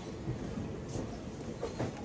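Passenger train coach running over the track, heard from on board: a steady rumble with sharp wheel clicks over rail joints, once about a second in and twice in quick succession near the end.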